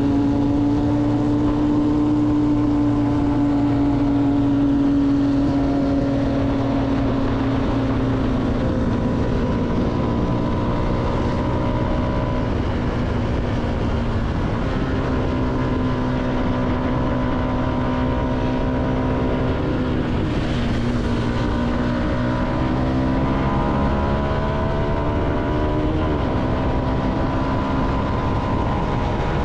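CFMoto motorcycle engine running under way at a steady cruise. Its note drops and climbs back twice, about halfway through and again about two thirds of the way in, as the throttle eases and opens again.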